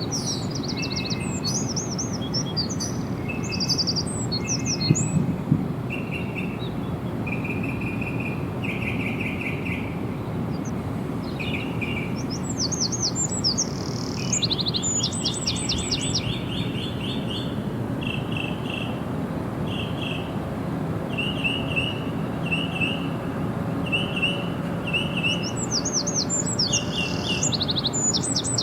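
Several birds chirping and singing, overlapping short trills and repeated calls, one of them repeating a call about once a second through the second half, over a steady low background rumble.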